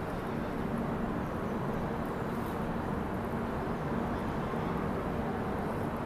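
Train noise: a steady low rumble with a constant hum and no separate knocks or clicks.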